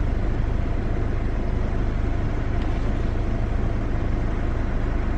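Car idling at a standstill, heard from inside the cabin: a steady low rumble.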